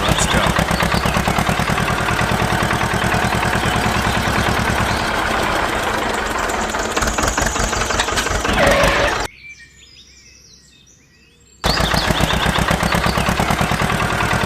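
A small engine running with a rapid, even chugging. It drops away for about two seconds after the middle, then runs again.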